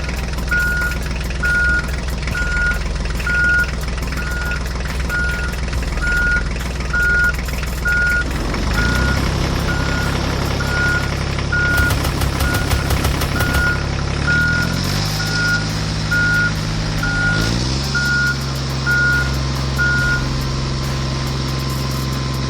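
A vehicle's reversing alarm beeping evenly, a little more than once a second, over a running engine. The beeping stops near the end while the engine carries on, its pitch stepping up a few times in the second half.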